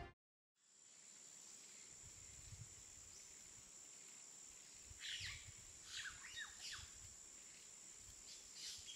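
Faint outdoor ambience with a steady high-pitched whine, and short bird chirps in three clusters from about five seconds in.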